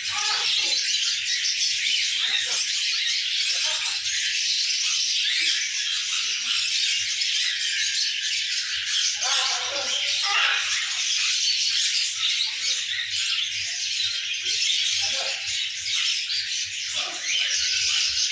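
Many small caged birds chirping and chattering at once in a dense, unbroken high-pitched din.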